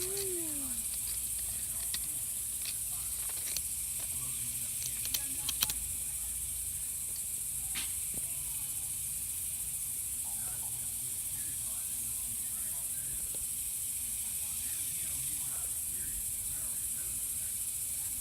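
Steady, high-pitched hiss of an insect chorus, unbroken throughout, with a few faint clicks about five to six seconds in.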